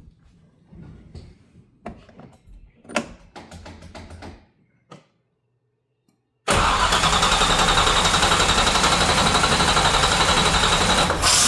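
A few light clicks and knocks, then a short silence, then an engine cranking on its starter for about five seconds with an even pulsing rhythm, stopping near the end without catching: a no-start.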